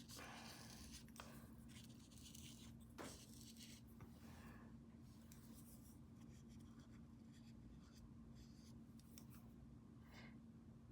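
Near silence with faint, scratchy strokes of a paintbrush working paint, and a single sharp click about three seconds in, over a steady low hum.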